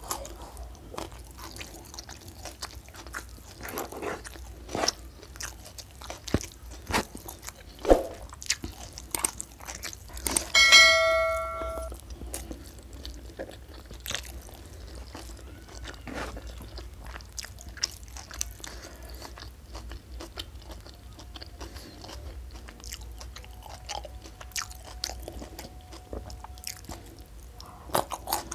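Close-up wet chewing and mouth smacks of someone eating rice and sambal fish by hand, with short clicks and crunches. About ten seconds in, one bright ringing clink, like a glass or dish being struck, dies away over about a second.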